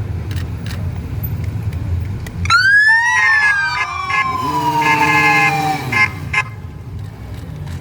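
Electronic siren on an escort police motorcycle sounding briefly: a quick rising-then-falling wail about two and a half seconds in, then a steady horn-like tone for about a second and a half. A low engine rumble runs underneath.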